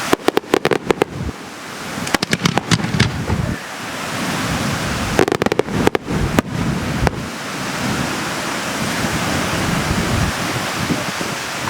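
Fireworks going off in rapid volleys of sharp bangs: three close clusters in the first seven seconds and a last single bang, then a steady rushing noise.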